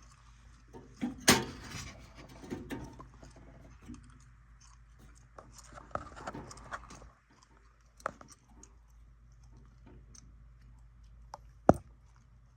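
Scattered clicks, knocks and rattles of furnace parts and tools being handled, with a sharp knock about a second in and another near the end, over a faint low steady hum.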